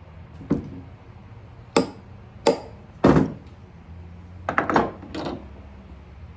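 About eight sharp hammer taps on a small metal part, coming irregularly, a few with a brief metallic ring. This is tapping a loose fitting to close it up tighter.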